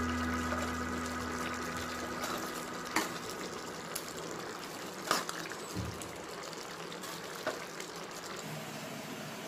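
Background music fades out over the first two seconds, leaving cauliflower kurma, a coconut-based gravy, simmering and bubbling in a pan. A few sharp clicks sound over it.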